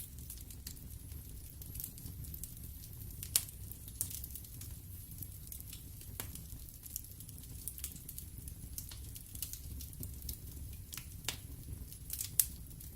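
Wood fire burning in an open fireplace, with a steady low rumble of flames and irregular sharp crackles and pops of the burning logs, two louder pops about three and a half seconds in and near the end.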